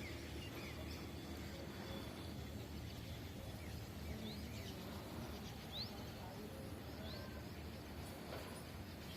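Birds giving short, sparse chirps over a faint steady outdoor rumble.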